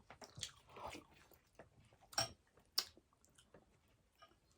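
Faint eating sounds: soft chewing and wet mouth clicks, with two sharper clicks about two seconds in, a little over half a second apart.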